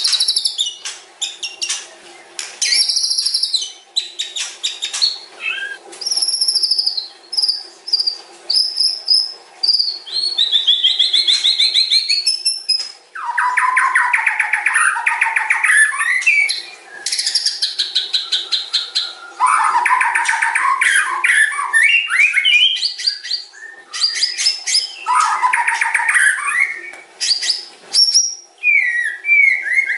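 White-rumped shama (murai batu) singing a long, varied song without pause: clear whistled notes and glides mixed with rapid trill phrases, with several bouts of dense fast trilling in the middle and later part.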